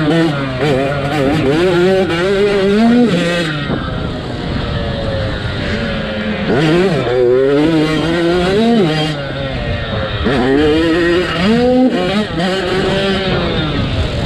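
Motocross bike engine revving hard, its pitch climbing and dropping several times as the throttle is opened and shut through the track's sections.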